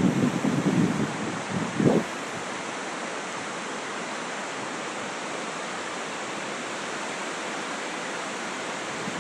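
Floodwater rushing in a steady, even roar of noise. Wind buffets the microphone for about the first two seconds.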